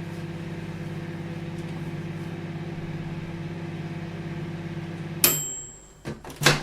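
Microwave oven running with a steady hum, which cuts off about five seconds in with a single bell-like ding that rings briefly, marking the end of the cooking cycle. Two sharp clicks follow near the end.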